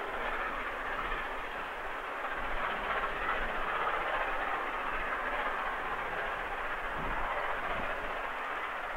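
Steam-hauled passenger train passing at a distance: a steady rumble and rush of the coaches rolling along the rails, with no distinct exhaust beat.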